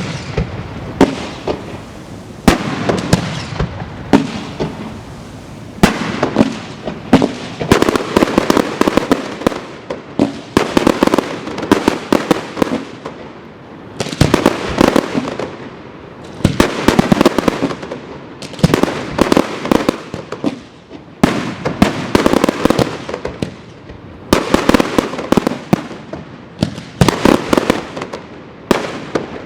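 Fireworks going off: sharp bangs, many followed by dense crackling, in repeated volleys every few seconds.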